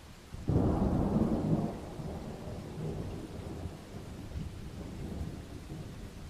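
Thunder in a rainstorm: a clap breaks about half a second in, loudest for a second or so, then rolls on as a low rumble that slowly fades, over steady rain.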